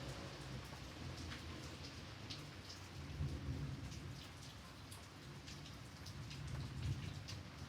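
Steady rain with many individual drops hitting near the microphone, over a constant low rumble.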